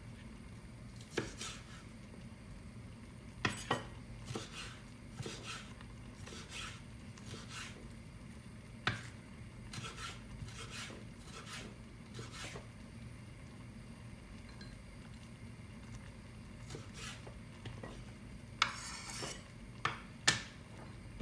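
Dishes and cutlery being handled: scattered light clinks and short scrapes, a dozen or so spread through, with a quick cluster near the end, over a steady low hum.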